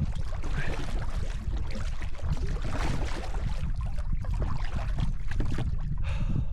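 Kayak paddling: paddle blades dipping and water splashing and trickling off them, irregularly, with a steady low wind rumble on the microphone.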